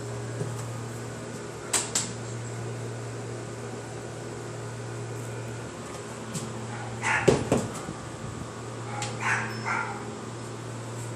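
A dog barks several times in the second half, loudest around the middle, over a steady low mechanical hum. Two sharp clicks come early on.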